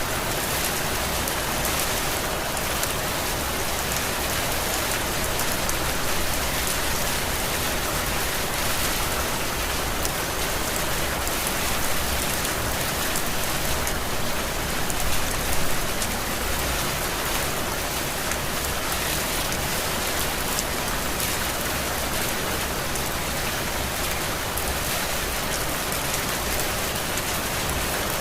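Heavy rain falling steadily, an even wash of rain hiss and pattering drops, swelling slightly about halfway through.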